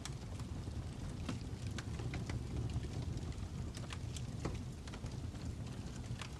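Fire crackling: irregular sharp pops and snaps over a steady low rush.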